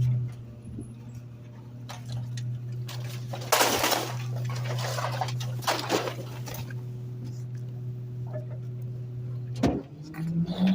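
Garbage truck packer compacting trash in the hopper: a steady low hum runs underneath while bags crunch and burst from about three to seven seconds in. A sharp knock comes near the end, followed by a rising tone.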